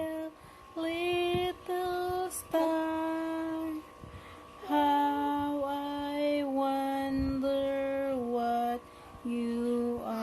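A woman singing slowly in long held notes, in short phrases that step down in pitch, with brief pauses between them.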